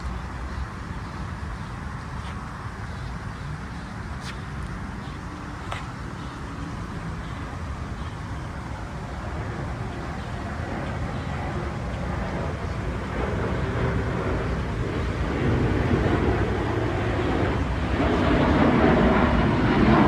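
Outdoor ambience: a steady low rumble, with a rushing noise that swells steadily louder over the second half.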